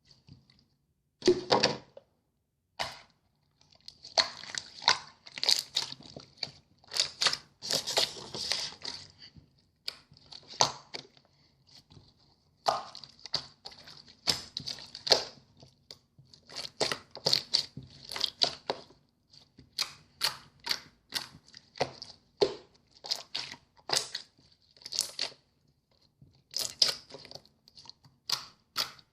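Handmade clear slime being squeezed, pressed and stretched by hand, giving an irregular run of sticky pops, clicks and crackles, with a few short pauses.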